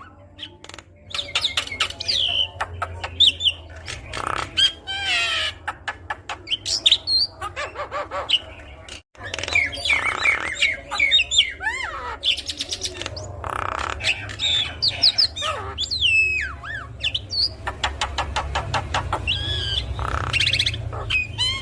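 Javan myna singing a varied, chattering song: whistles that slide up and down, rapid runs of clicks and harsh squawky notes, with a brief sudden gap about nine seconds in.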